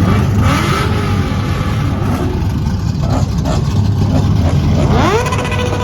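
Car engines rumbling steadily, with one engine revving up sharply about five seconds in and holding at high revs.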